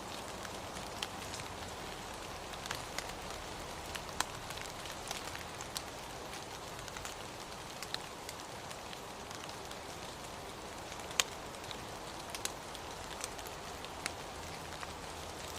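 Steady rain falling, with scattered sharper drops ticking out above the hiss every second or so.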